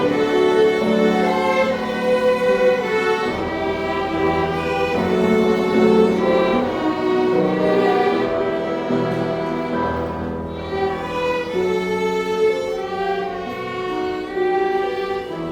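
A string ensemble of violins with cello playing a slow hymn tune in sustained, bowed notes.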